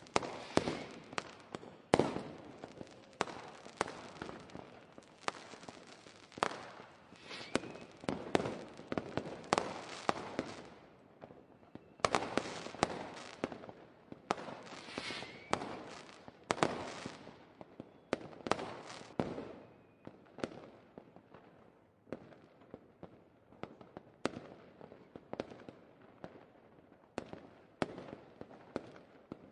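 A fireworks display: a rapid, irregular series of bangs from bursting shells, each followed by a crackling tail. The bursts are densest over the first ten seconds, pause briefly, pick up again, then thin out to scattered pops near the end.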